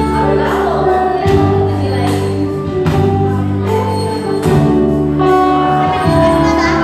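A choir singing with instrumental accompaniment, held chords changing about every one and a half seconds.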